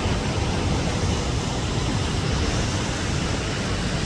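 Steady rush of water pouring over Dhuandhar Falls, an unbroken noise with no distinct sounds in it.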